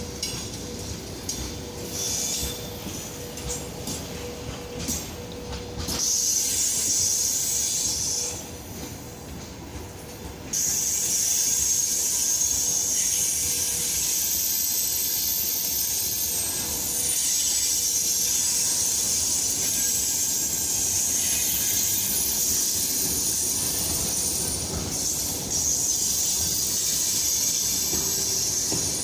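Freight train's open wagons rolling slowly past, wheels grinding on the rails with a steady hiss and a thin high squeal. It gets louder about six seconds in and again about ten seconds in.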